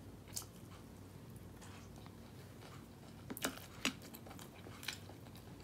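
Faint eating sounds: chewing, with a few short sharp clicks, the loudest two close together a little past the middle.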